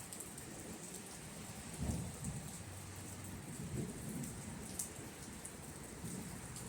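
Steady rain with low rumbles of distant thunder, the strongest about two seconds in and another a little later, and a few sharp drips of rain.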